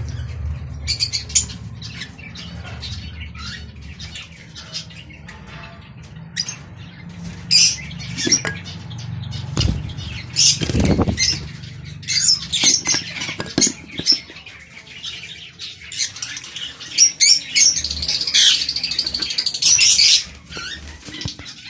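Lovebirds moving about in their cage: wings fluttering and short scrabbling, clicking noises, mixed with shrill chirps that get busier in the second half. There are a couple of dull thumps near the middle.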